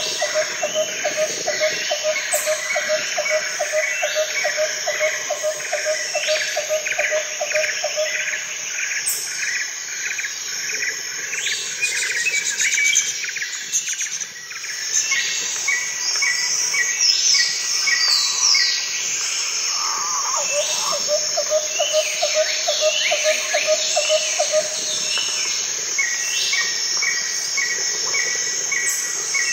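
Birds and insects calling in the bush: one bird repeats a low note about four times a second, stopping about eight seconds in and returning about two-thirds of the way through, while other birds give quick runs of higher notes over a steady high shrilling of insects.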